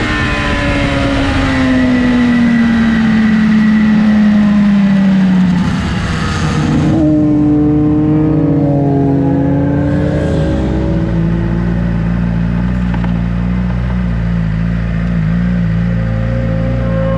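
Sport bike engine heard onboard, its pitch falling steadily as the bike slows, under loud wind rush. The wind rush cuts off suddenly about seven seconds in; the engine pitch then shifts up and down before settling into a steady note for the rest of the time.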